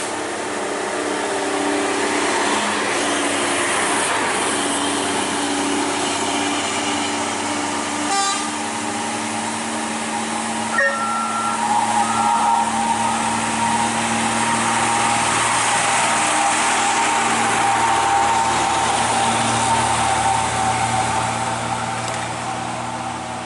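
Old truck's engine running under load on a steep uphill climb, a steady drone, with a few short horn beeps about halfway through.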